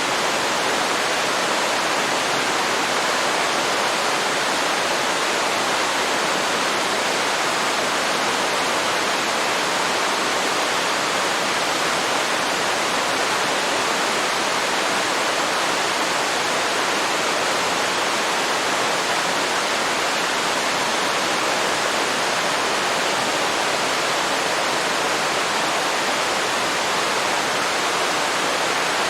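Waterfall rushing into a river: a steady, unbroken roar of falling water.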